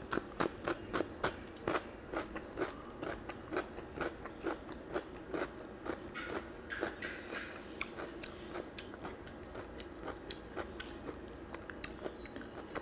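Close-miked chewing of a mouthful of mutton fat curry and rice: sharp, wet mouth clicks about three a second, thinning out in the last few seconds.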